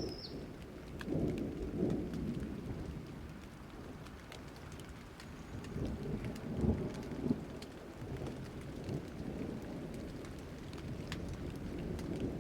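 Thunderstorm: steady rain falling with scattered drop ticks, and low rolling thunder that swells twice before building again near the end. A short high chirp right at the start.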